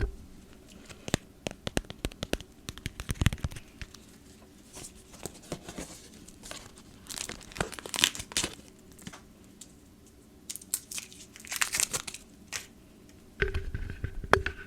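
Close-miked ASMR tapping and crinkling on crinkly packaging: quick irregular taps and clicks, with louder crinkling bursts about halfway through and again near the end.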